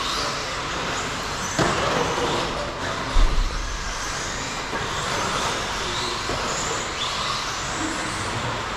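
RC stadium trucks racing around the track: motors whining up and down in pitch over a steady rush of tyre and track noise. There is a sharp knock about a second and a half in, and a heavy low thump about three seconds in, which is the loudest moment.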